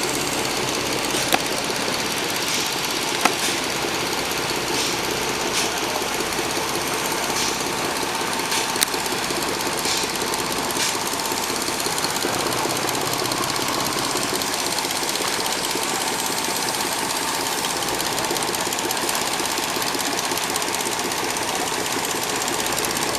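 An engine running steadily with a fast, rough knocking clatter. A few sharp clicks stand out in the first ten seconds.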